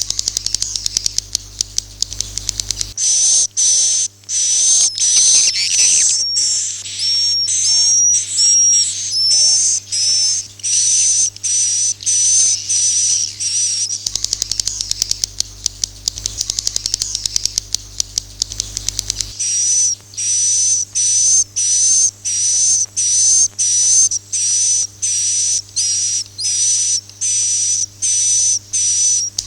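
Swiftlet calls from a swiftlet-house lure recording: a series of high, buzzy chirps repeating a little under twice a second. Stretches of rapid clicking come near the start and again about halfway through.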